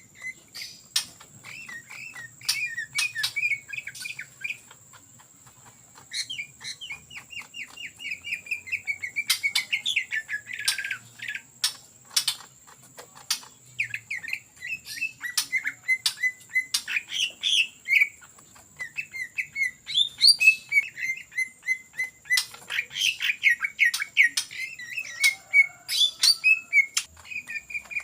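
Green leafbird (cucak ijo) singing in rapid chattering runs of repeated notes, phrase after phrase, with sharp clicks between them.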